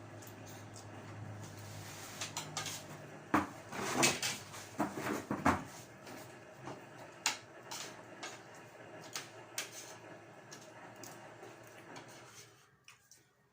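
Dishes and utensils clattering and clinking as a meal is handled, with a cluster of knocks a few seconds in and scattered clicks after. A low steady hum runs underneath and drops away near the end.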